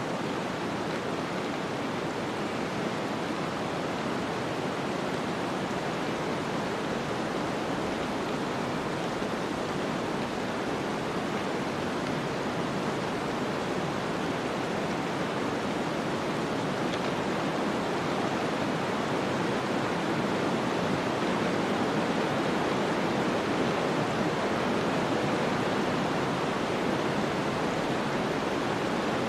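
Snowstorm wind ambience: a steady, even rushing hiss that swells slightly in the last third.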